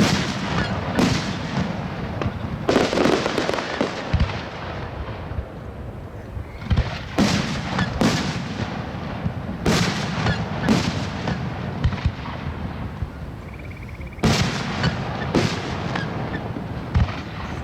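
Fireworks display: aerial shells bursting in a steady run of sharp bangs, about a dozen in all, with a longer spell of dense noise a few seconds in.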